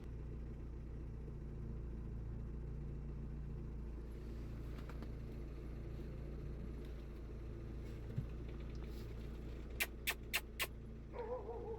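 Steady low vehicle engine rumble. About ten seconds in come four short, sharp squeaks, and near the end a dog starts to whimper.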